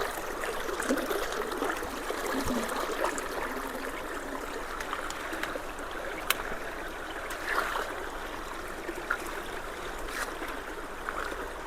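Creek water running steadily through and around a culvert, with a few sharp clicks and knocks, the clearest about six seconds in.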